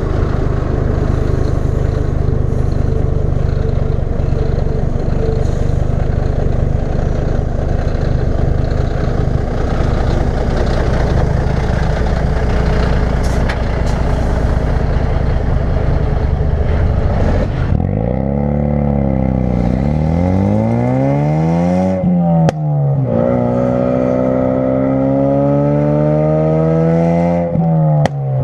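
2016 Ford Focus RS's 2.3-litre turbocharged four-cylinder through a custom-fabricated exhaust. For about seventeen seconds it drones steadily with road noise at a cruise. Then it pulls under acceleration, its note climbing and dropping sharply at each upshift, twice.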